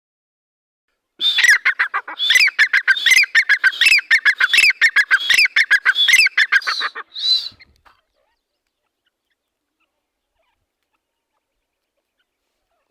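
Grey francolin (teetar) calling: a loud, fast run of repeated, ringing notes lasting about six seconds, ending with a single last note.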